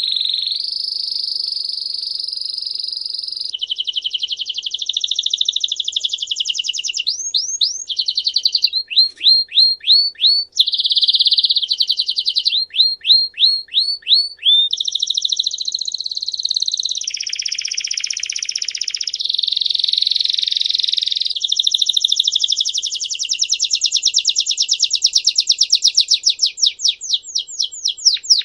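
A songbird singing one long unbroken song of fast trills. Each run of one repeated note lasts a second or more, then gives way to another, including runs of quick falling sweeps and a long rapid trill near the end.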